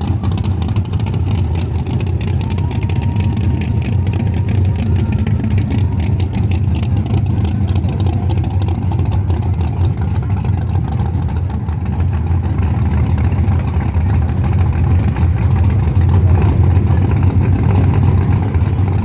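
Car engine held at high revs during a burnout, running loud and steady and swelling slightly near the end.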